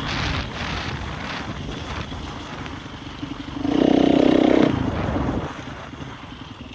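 Motocross bike engine revving, with a loud burst of throttle a little under four seconds in, then fading away.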